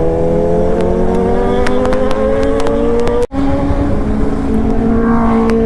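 Superbike engine accelerating hard, its note rising steadily for about three seconds, then a brief cut-out and a steadier, lower note after a shift, over low wind rumble.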